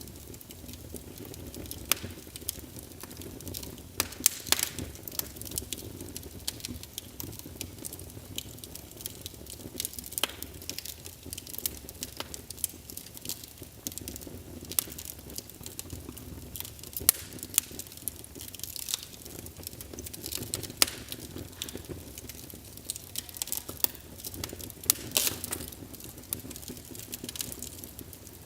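Wood fire burning in a fireplace: irregular crackles and sharp pops, several a second, over a low steady rumble of the flames.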